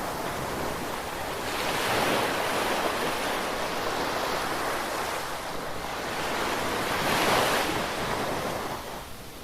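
Ocean waves washing onto the shore in a steady hiss of surf. The wash swells about two seconds in and again around seven seconds, and eases near the end.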